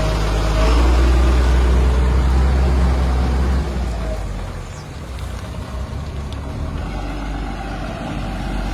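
Heavy diesel construction-machine engine running, working hard for about three seconds and then easing off to a lower, quieter run.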